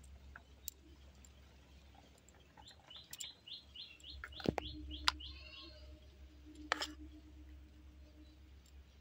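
A bird calls a quick run of about eight short, high chirps around three seconds in. This is followed by a few sharp taps or clicks, the loudest sounds, over a faint low hum.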